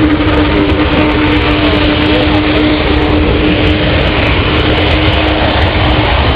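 Loud, steady engine noise with a deep rumble and one held tone, typical of an aircraft engine running at an airshow.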